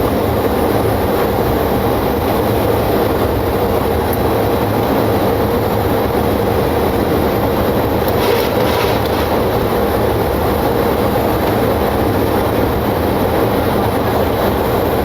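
Steady loud roar inside a Boeing 727-200 cockpit on final approach: rushing airflow over the airframe, with the landing gear down and flaps at 30, together with the three JT8D turbofan engines at approach power.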